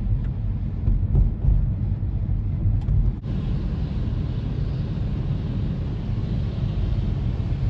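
Steady low rumble of a car driving, with road and engine noise and no other distinct events. The sound changes abruptly about three seconds in.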